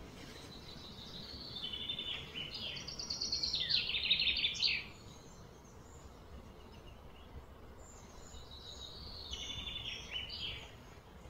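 A bird singing: a fast trilled phrase of rapid notes that steps up and down in pitch and ends in a quick downward sweep, lasting about four seconds, then a shorter phrase near the end.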